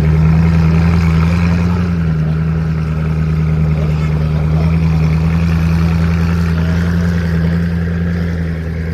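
Koenigsegg Agera RS's twin-turbo V8 running at a steady, held engine note, with a slight waver in pitch a second or two in and the level easing off a little near the end.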